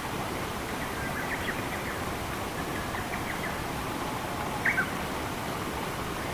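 Steady rush of flowing water with small birds giving short, scattered chirps; two louder chirps come close together a little before the five-second mark.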